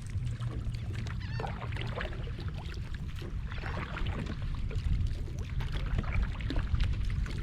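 Water splashing and lapping against a fishing kayak, with many small knocks and a steady low rumble. A few brief bird chirps come in about a second and a half in.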